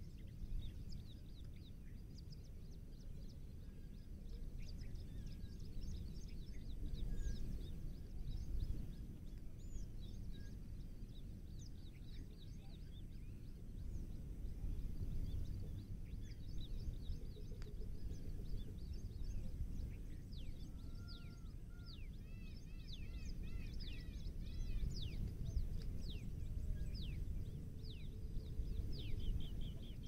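Birds chirping: many short, high calls that drop in pitch, scattered throughout and busiest in the last third, over a steady low rumble.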